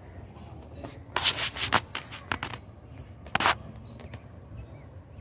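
Several short scraping, crunching noises close to the microphone: a cluster about a second in, then single ones around two and a half and three and a half seconds in.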